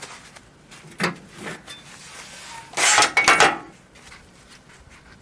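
Metal parts clattering and clinking: a sharp knock about a second in, then a louder run of clinks with brief ringing just under a second long around the middle.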